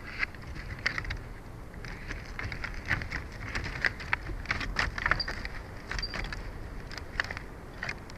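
Wind rumbling on an outdoor microphone, with an irregular run of short, sharp crackling sounds.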